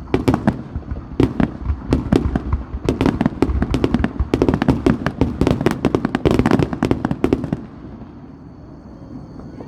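Fireworks display: a dense, rapid barrage of sharp bangs, several a second, that stops suddenly about three quarters of the way through.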